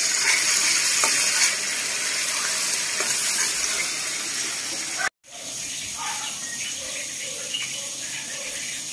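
Chili sambal sizzling as it fries in a pan while a spatula stirs it. About five seconds in the sound cuts off and gives way to quieter, faint wet sounds of a hand working chicken pieces through batter in a bowl.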